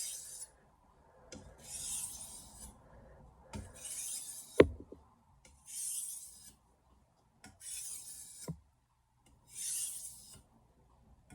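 Santoku blade drawn across a wet 1000-grit soaking whetstone: about six slow, even rasping strokes roughly two seconds apart, light passes to take off a burr that is still clinging. A sharp tap of the blade on the stone about halfway through.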